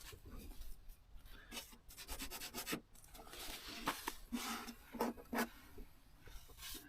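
Faint, irregular rubbing and scraping with a few light knocks, like something being handled.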